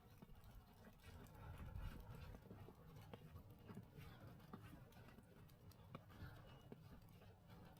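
Faint footsteps crunching in snow, irregular soft steps over a low rumble.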